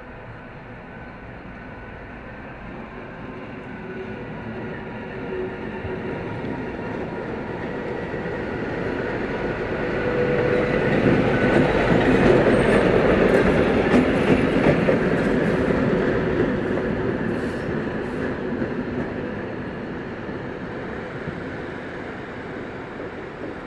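A train passing by: its rumble builds to a peak about halfway through and then fades, with a run of clicks from the wheels over the rail joints as it goes past.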